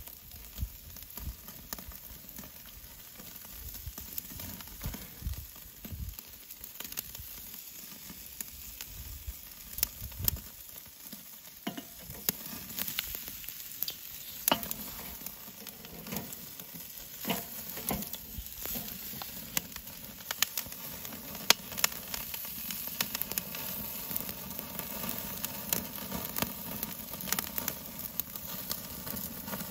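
Food frying: a steady sizzle with frequent sharp pops and crackles throughout.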